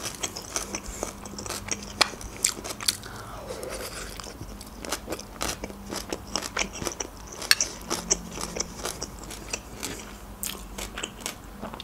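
Close-miked chewing of mashed potato and meatballs, a steady run of many small mouth clicks and smacks.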